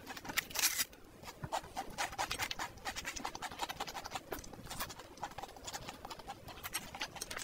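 Close-miked mouth sounds of eating stir-fried noodles: a dense run of wet, irregular chewing clicks and smacks, with a louder noisy burst about half a second in.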